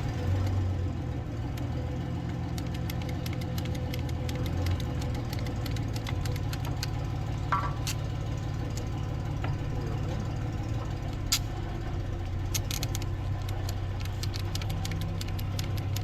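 An engine running steadily with a low hum, with scattered light clicks and ticks over it.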